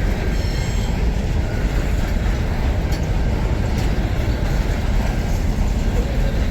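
Long interstate freight train's wagons rolling past close by: a steady, heavy rumble of steel wheels on rail, with a faint high wheel squeal in the first moment and a couple of light clicks midway.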